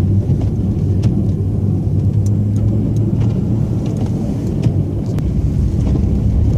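Plow truck's engine running steadily with a low drone, heard from inside the cab, with a few light clicks and rattles.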